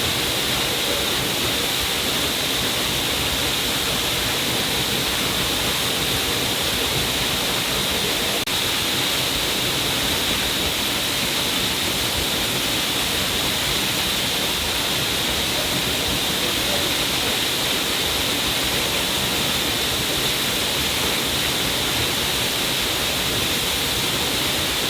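A stream of water falling down a cliff face, rushing and splashing steadily with no change in level.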